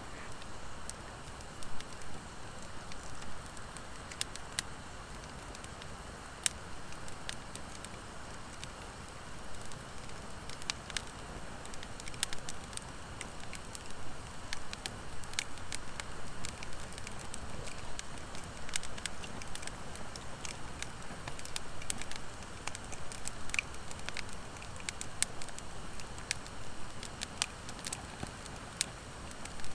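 Wood fire of driftwood and dry hardwood firewood burning, with irregular sharp crackles and pops over a steady low rush of flame. The pops come more often from about twelve seconds in.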